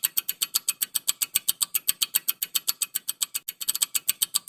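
A rapid, even ticking of about eight sharp ticks a second: a quiz countdown timer sound effect filling the answer pause.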